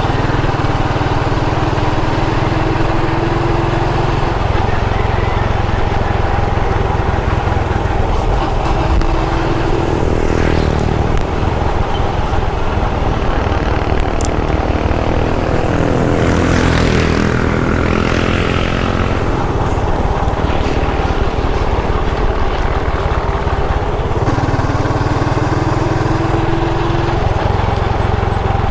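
Motorbike engine running steadily under way, with its pitch shifting up and down about a third and two thirds of the way through as the rider changes speed.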